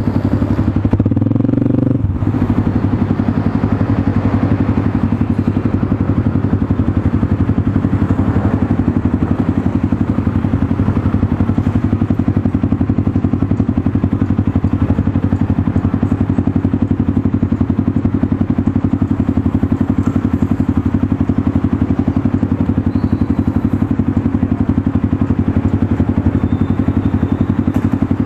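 Motorstar Cafe 400 single-cylinder engine running through an SC Project slip-on exhaust, holding a steady note after a brief change in pitch about a second in.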